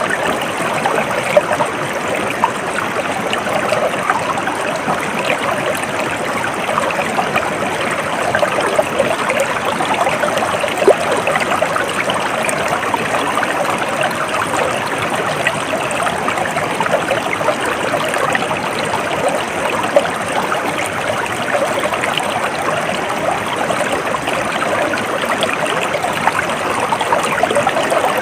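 Stream water flowing steadily, a continuous babbling and trickling.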